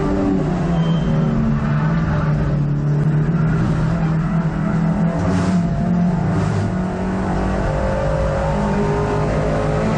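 Racing hot hatch's engine heard from inside the car at speed, its note rising and falling under throttle and gear changes, over steady road and wind noise.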